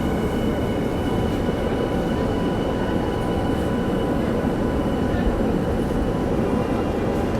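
Steady rumble inside a Minato Mirai Line subway train, with a few faint, unchanging high tones over it.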